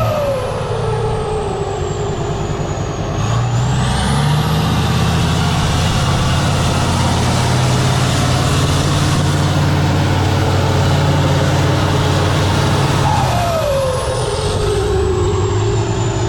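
Heavy off-road trials truck's diesel engine working hard under throttle. The revs climb about three seconds in and hold steady, with a high whistle rising along with them. Near the end the throttle comes off, the revs drop and a whistle falls away.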